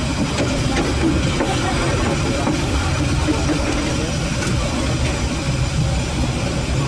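Steady rumble of a train in motion, heard from on board, with faint voices in the background.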